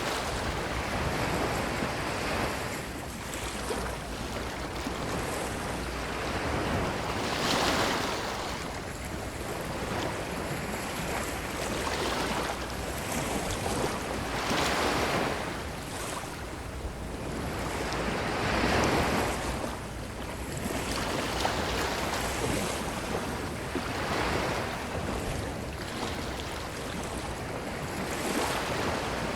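Ocean waves breaking and washing up the shore in a steady, rhythmic wash that surges every few seconds. The loudest swells come about seven and nineteen seconds in.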